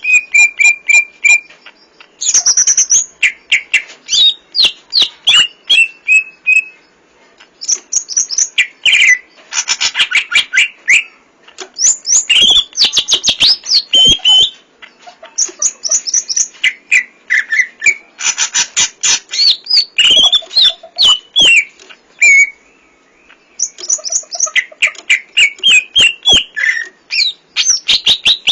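Cucak ijo (green leafbird) singing: high-pitched phrases of rapid chattering notes and clear whistled slurs, each lasting a second or two, separated by short pauses. The song is packed with imitated 'isian' fill phrases.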